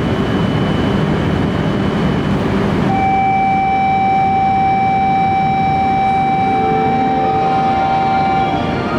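E5 series Shinkansen train pulling out of the station after its doors close, a loud steady rumble and rush of the train on the track. About three seconds in, a steady electronic tone sounds for around five and a half seconds, then stops.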